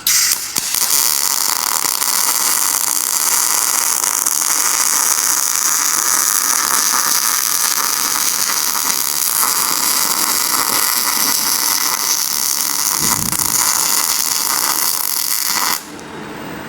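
Welding robot's arc welding, a steady crackling hiss that starts abruptly and cuts off suddenly near the end as the arc stops.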